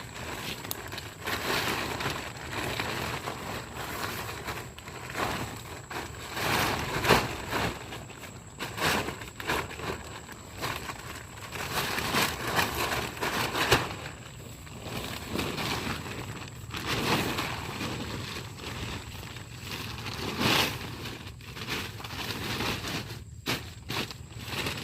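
Irregular rustling and crunching noises with a few sharper cracks, over a thin steady high-pitched tone.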